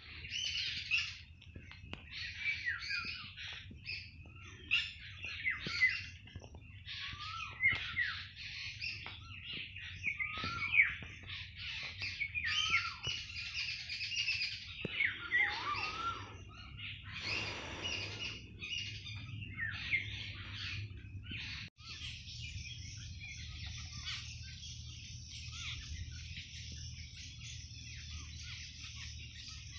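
Birds chirping and calling: a run of short, separate chirps and rising calls for about the first twenty seconds, then a brief cut-out and a denser, continuous high chatter.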